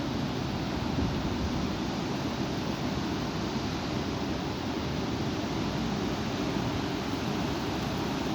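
Strong wind blowing: a steady rushing noise, heaviest in the low end.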